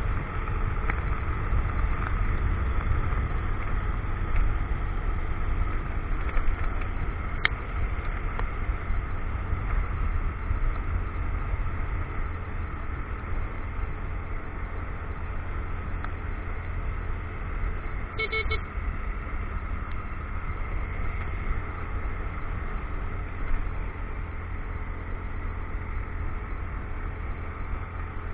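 Motorcycle riding along a road, heard on an action camera: steady wind rumble over the running engine and tyres. A brief beeping tone comes about 18 seconds in.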